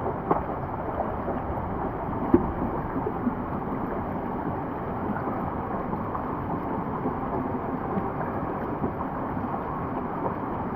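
Steady rush of water on a tube water slide, with wind noise on the microphone and a single sharp knock about two seconds in.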